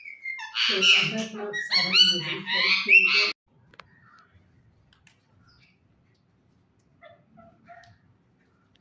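Green ringneck parakeet calling loudly for about three seconds in sharp, pitch-bending calls, then a few faint chirps near the end.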